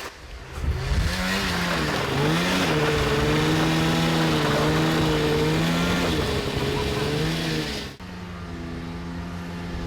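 Two-stroke engine running hard, its pitch swinging up and down with the throttle before holding fairly steady for several seconds. About eight seconds in it cuts off abruptly, and a quieter, steadier engine hum takes over.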